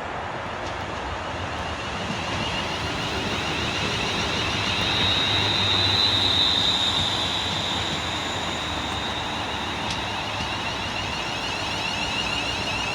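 Class 350 Desiro electric multiple unit pulling into the platform and drawing to a stop. A steady rumble grows louder to a peak about halfway through, with a high electrical whine at its loudest.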